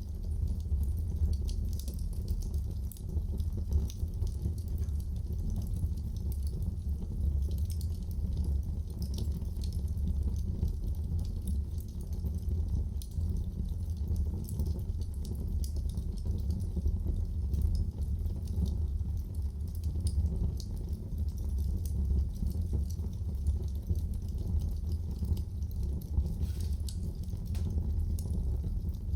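Wood fire burning in a fireplace: a steady low rumble of flames with many small scattered crackles and pops.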